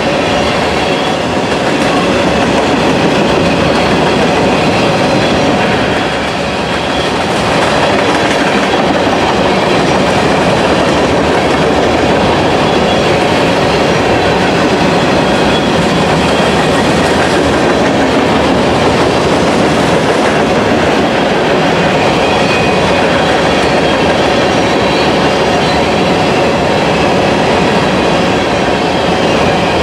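Freight train cars rolling past at close range: a loud, steady rumble and clatter of steel wheels on rail, with faint ringing tones from wheels on the rail.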